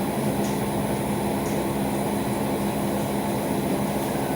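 Steady low machine hum with a rushing noise underneath, running without change.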